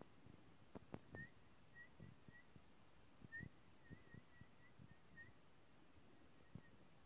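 Faint, short chirps from a baby bird, each a quick upward flick, repeated about a dozen times at irregular spacing, with a few soft knocks about a second in.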